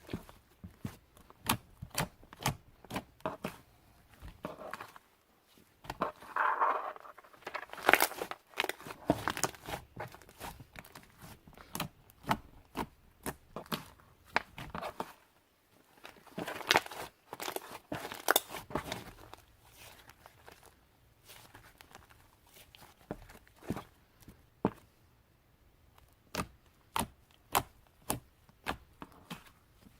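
Clay-mixed bubble slime being squeezed and stretched by hand, giving off many sharp clicks and small pops, with two denser bursts of crackling in the first and middle parts.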